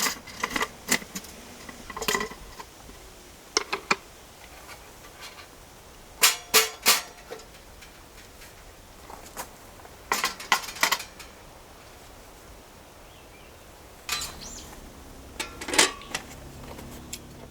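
Hard objects being handled, likely camping gear: several short groups of sharp clinks and clacks, a few seconds apart.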